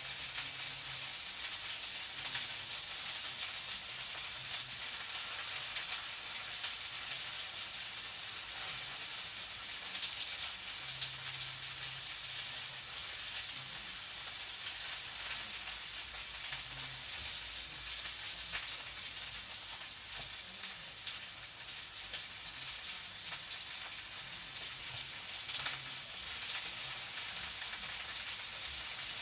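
Food frying in a pan, a steady sizzle with fine crackles throughout.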